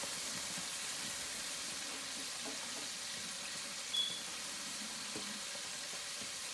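Chicken wings frying in hot grease: a steady sizzle. A brief high tone sounds about four seconds in.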